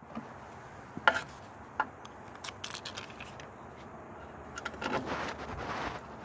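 Hand tools and metal parts clinking and scraping during work on a snowblower's electric starter. There is a sharp knock about a second in, another shortly after, and a longer scraping, rattling stretch near the end.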